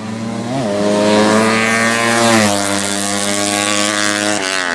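Drag-racing motorcycle with a 200cc horizontal-cylinder ('sleep') engine running hard at high revs; its note rises about half a second in, steps down about halfway, and dips sharply then climbs again near the end, as at gear changes.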